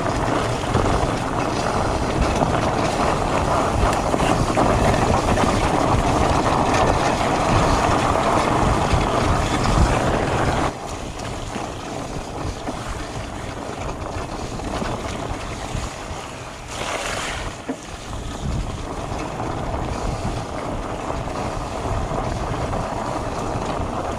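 Wind rushing over the microphone and tyre noise from a fat bike riding a dirt trail. The noise drops suddenly about ten seconds in, and there is a brief hiss near the end.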